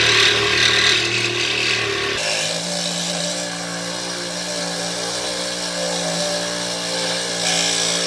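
Power saw running steadily as it cuts through the car's exhaust pipe to take the muffler off, its motor pitch stepping up about two seconds in and then holding.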